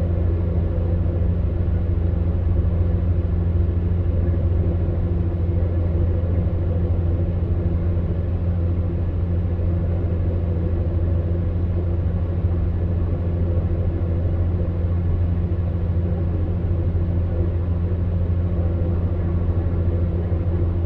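Electric fan heater running: a steady low hum with a fainter airy fan noise over it, unchanging throughout.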